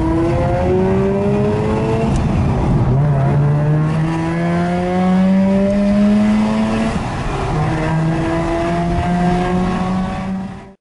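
Mazda RX-8's two-rotor rotary engine heard through an aftermarket muffler, running under load with its pitch climbing slowly in stretches broken by gear changes about three and seven seconds in. The sound cuts off abruptly at the end.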